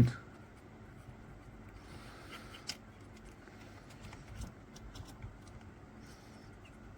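Faint, scattered clicks and scrapes of a metal amalgam condenser packing amalgam into a tooth cavity.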